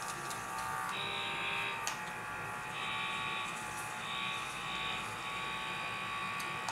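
Handheld washing device's vibrating head running with a steady electric buzz, its tone shifting slightly every second or so.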